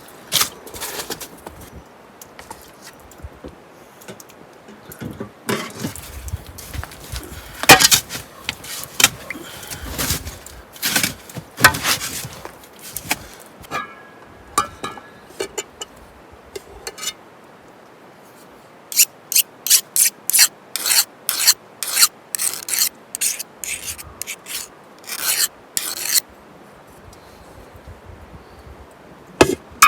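A series of short scraping strokes, irregular at first and then a quick run of about two strokes a second late on.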